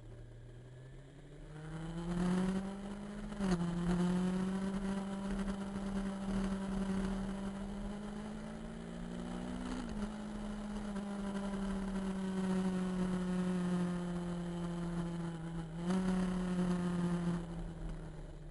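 Motorcycle engine pulling away from a low idle, its pitch climbing and then dropping suddenly at gear changes, about three seconds in and again near the middle, and holding steady in between. Near the end it rises briefly, then settles back toward idle.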